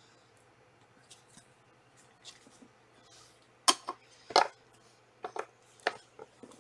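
Trading card packs and cards being handled. Faint rustling, then a few sharp snaps and clicks from about halfway through as a pack is opened.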